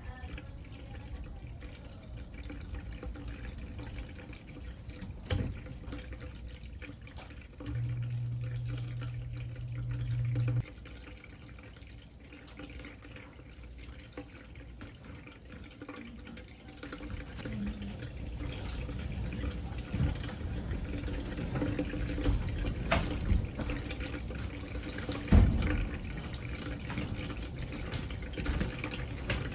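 Automatic pet water fountain running, its water trickling steadily, with a few knocks, the loudest near the end, and a short low hum about a third of the way in.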